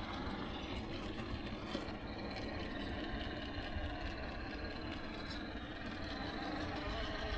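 Radio-controlled rock crawler's electric motor and gears whirring steadily as it crawls over rough ground.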